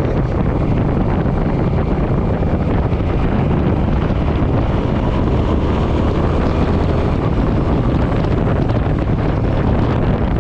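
Wind rushing over the microphone while riding a Suzuki Boulevard M50 motorcycle, steady and loud, with the bike's V-twin engine droning underneath at a constant speed.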